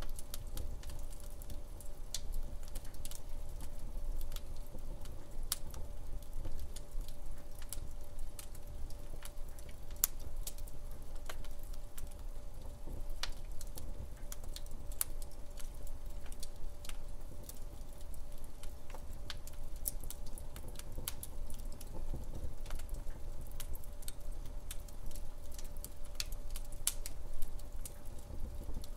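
Wood fire in a fireplace crackling: irregular sharp pops and snaps from the burning log over a low rumble of flames.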